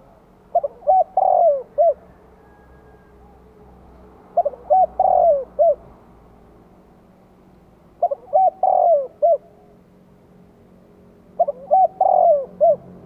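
Spotted dove cooing: a decoy bird's calling song used to draw in wild doves. It gives four phrases, one about every three and a half seconds, each a few short coos around one longer coo.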